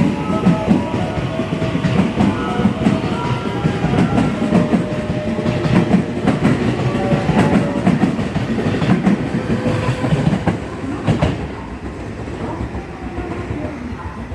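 Hanwa Line electric train running along the platform, wheels clicking over the rail joints above a heavy rumble, with some held tones. The rumble dies away about eleven seconds in.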